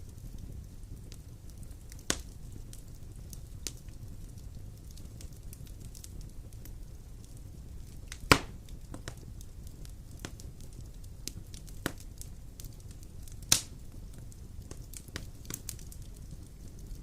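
Fire burning in a fireplace: scattered crackles over a low steady rumble, with three sharp pops, the loudest about eight seconds in.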